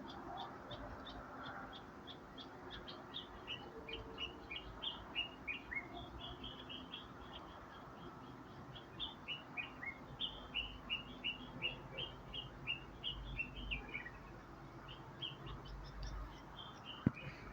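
Bird chirping: long runs of short high chirps, several a second, some dropping in pitch, with a pause in the middle. A single sharp click near the end.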